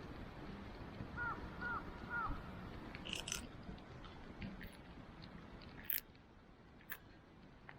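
Campfire burning with scattered sharp crackles and pops of wood, the loudest snaps about three, six and seven seconds in. A bird calls three times in quick succession a little over a second in.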